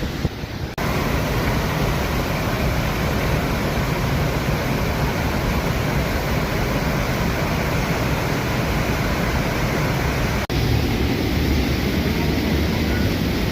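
Waterfall rushing: a loud, steady wash of falling water, broken by two brief cuts in the sound, about a second in and again near ten seconds.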